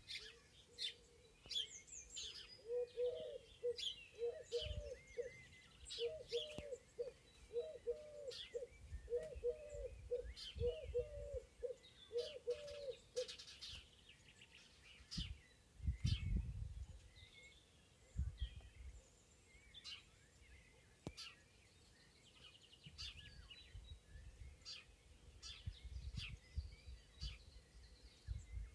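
Several songbirds chirping and singing in a spring forest, with short, high notes scattered throughout. For about ten seconds in the first half, a low call of short hooting notes repeats about twice a second. Intermittent low rumbles run underneath.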